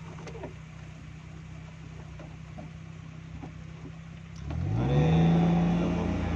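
Car engine running steadily at low revs with a few faint clicks, then revving up about four and a half seconds in as the car pulls away, the pitch rising quickly and holding higher and louder.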